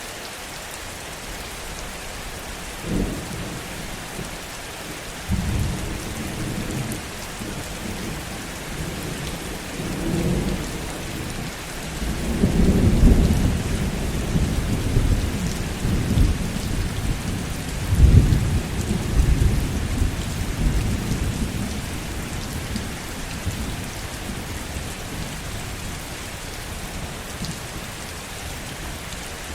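Heavy, steady rain with a roll of thunder: a first crack about three seconds in, then rumbles that build to the loudest peals in the middle and die away over the last several seconds, leaving only the rain.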